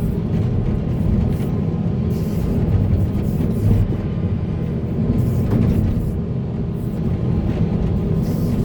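Heavy diesel earthmoving machinery running: a steady, dense low rumble of excavator and dump-truck engines working.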